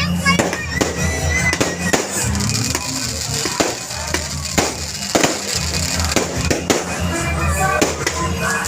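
Fireworks going off in a rapid series of sharp bangs and crackles, over loud music with a heavy bass beat.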